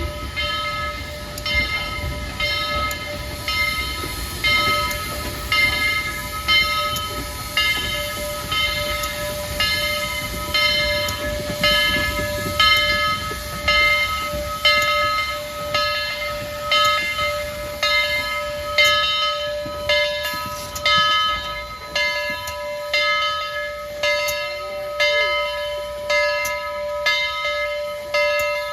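Southern 4501 steam locomotive's bell ringing steadily, about one stroke every 0.8 seconds, as the locomotive rolls in over a low rumble and hiss that fade in the second half.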